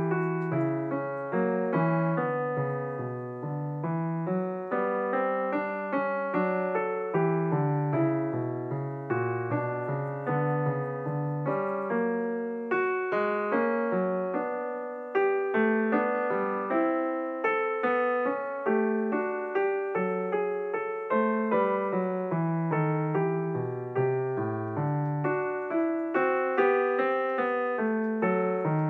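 Background piano music: a steady run of single struck notes, each fading before the next.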